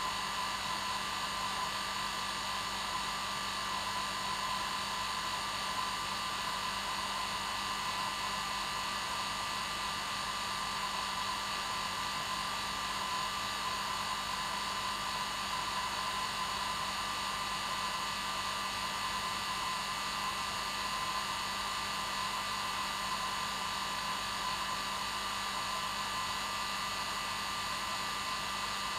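Hair dryer running continuously, a steady whooshing rush of air with a constant motor hum and whine and no change in speed.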